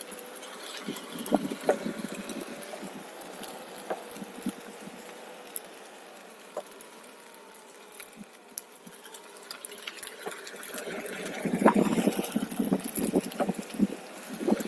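OneWheel electric board rolling along a trail: scattered clicks and rattles with a faint wavering whine, then a rougher, louder rolling crunch that builds from about ten seconds in.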